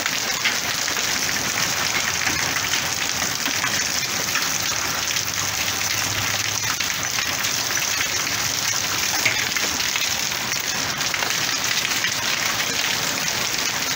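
Heavy downpour in a hailstorm: dense, steady patter and hiss of rain falling on the cars and driveway.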